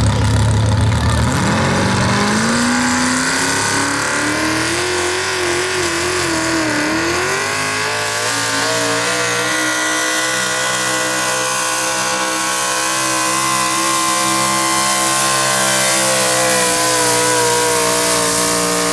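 A modified 4x4 pulling truck's 351 cubic-inch small-block Ford V8 runs at full throttle, pulling a sled. The revs climb in the first couple of seconds, waver and dip briefly about seven seconds in, then hold high and steady.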